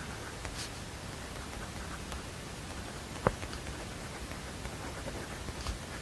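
Steady background hiss with scattered faint ticks and light rustling, and one sharp tap a little over three seconds in, like small desk-work noises during quiet study.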